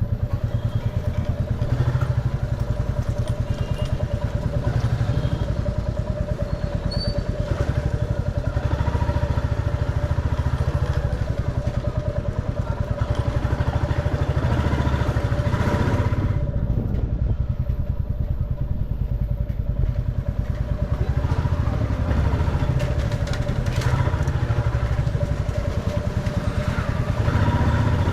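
Motorcycle engine running steadily while riding through street traffic, with a continuous low rumble and a steady hum throughout.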